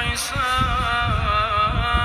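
A man's voice in melodic Quran recitation, holding one long note whose pitch wavers slightly. A low rumbling noise runs underneath.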